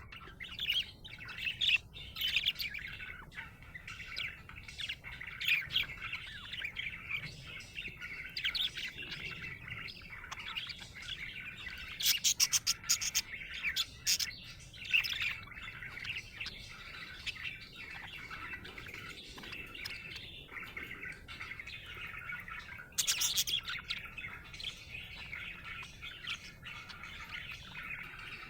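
Budgerigar (budgie) chirping and warbling continuously in a busy stream of short calls, with louder bursts of sharp chirps about twelve seconds in and again near twenty-three seconds.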